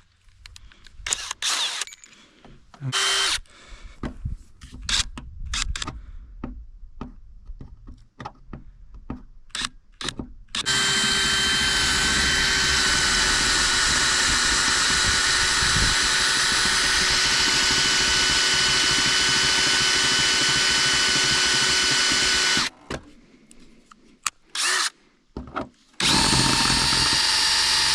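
Power drill drilling out a rivet on a snowmobile snowflap: first scattered clicks and knocks of handling, then about ten seconds in the drill runs steadily for around twelve seconds with a high whine that sags slightly, stops, and starts again for the last two seconds.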